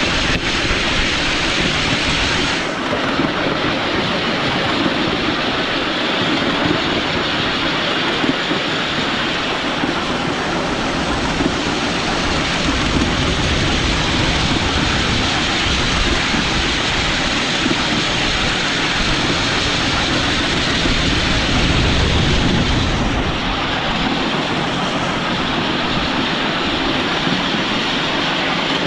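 Miniature railway train running on its track, a steady unbroken noise.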